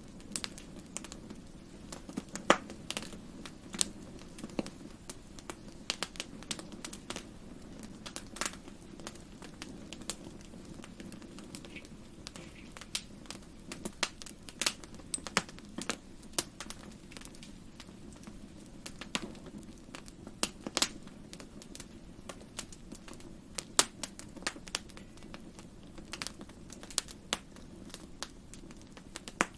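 Wood fire crackling: irregular sharp pops and snaps of burning wood over a steady low rush of flame.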